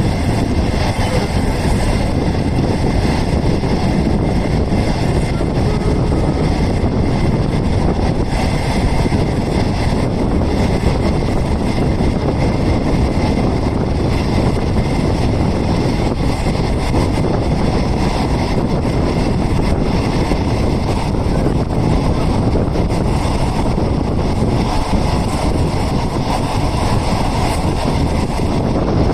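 Passenger train running at speed, heard on board a non-air-conditioned green passenger coach: a loud, steady rumble of wheels on the rails.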